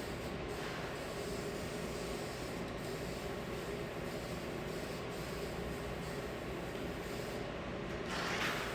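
Steady mechanical running noise with a short burst of hiss near the end.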